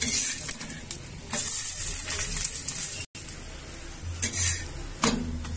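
Aloo paratha frying in oil on an iron tawa, sizzling in repeated surges as a metal spatula presses and shifts it on the pan. The sound cuts out for an instant about three seconds in.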